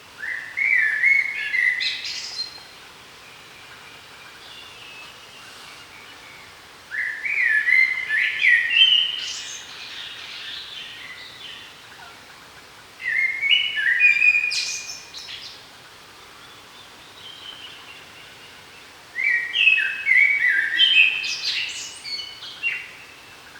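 A songbird singing the same short, fast phrase four times, about every six seconds, each phrase a run of quick stepped notes ending in a higher flourish.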